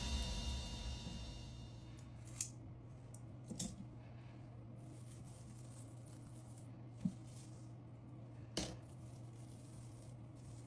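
Background music fading out, then a faint low hum with four short clicks or taps scattered through it.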